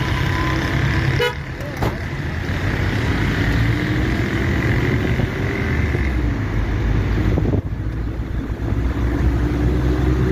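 Road traffic on a busy city highway: a steady low rumble of passing cars, broken by brief sudden dips about a second in and again about three-quarters of the way through.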